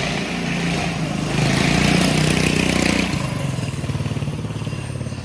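Motorcycle engine running, revved up about a second in and dropping back to a steady run about three seconds in.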